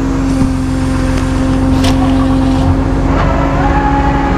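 Vehicle engine idling steadily, with a sharp click about two seconds in.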